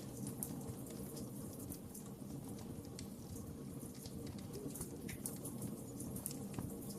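Wood fire crackling in a fireplace: irregular small pops and snaps over a steady low rumble of flames.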